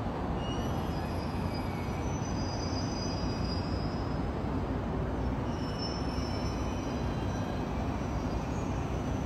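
Steady distant rumble of a train moving through a rail yard, with faint high wheel squeal twice, over a low hum of city traffic.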